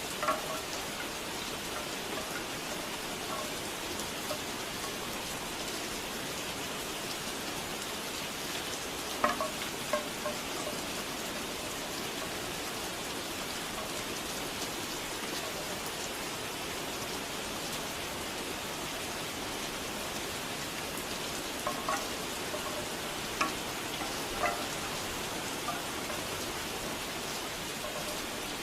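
Steady rain falling, with bamboo wind chimes knocking now and then in small clusters of short hollow tones: once near the start, again about a third of the way in, and a few times later on.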